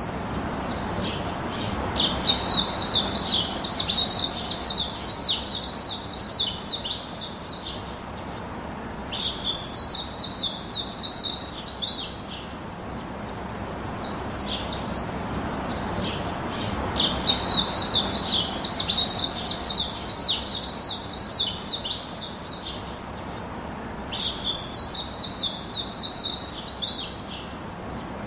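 Songbirds twittering in fast, high-pitched phrases a few seconds long that repeat every several seconds, over a steady background hiss.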